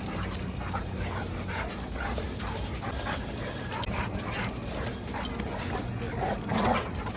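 Dogs whimpering and yipping in many short cries, a little louder near the end, as separated sibling dogs are reunited.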